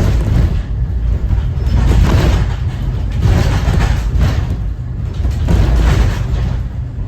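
Cummins ISB 6.7 diesel engine of a 2014 Thomas Saf-T-Liner C2 school bus running while the bus is under way: a steady low drone with louder noise swelling and fading every second or so.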